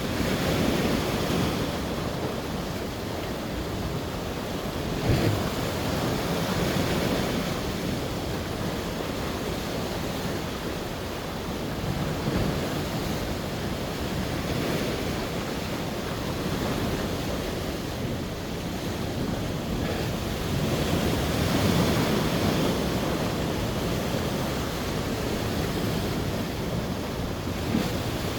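Sea surf breaking and washing ashore, a steady rush that swells and eases every several seconds, with wind buffeting the microphone.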